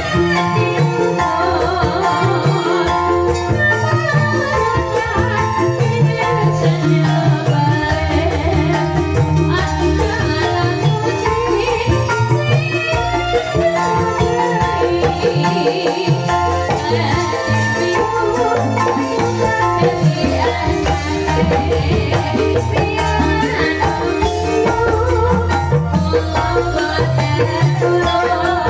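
Calung Banyumasan music: bamboo xylophones play a quick, steady interlocking pattern over a low bass line and percussion.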